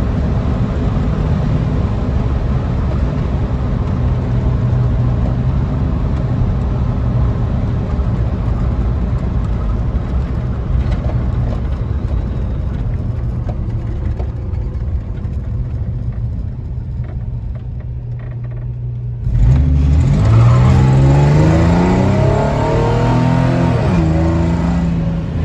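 The 4.3-litre V6 of a pickup truck, running steadily at cruise with road noise. About nineteen seconds in it suddenly gets louder and revs up under acceleration, its pitch rising and then falling away near the end.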